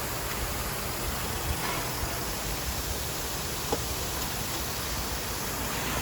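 Steady hissing background noise with one faint click a little past the middle.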